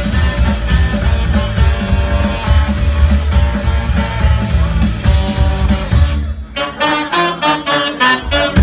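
Rock band playing an instrumental passage with no vocals. About six seconds in, the bass and drums drop out, leaving a lone lead line of short melodic notes for about two seconds, and then the full band comes back in.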